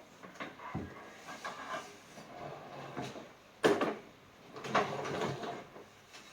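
Irregular knocks, a dull thud and scraping of small objects being handled and set down, with one sharp knock about three and a half seconds in and a longer stretch of rustling and scraping soon after.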